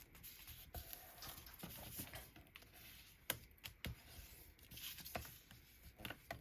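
Sheet of scrapbook paper being folded and creased by hand: faint rustling with scattered light taps and clicks.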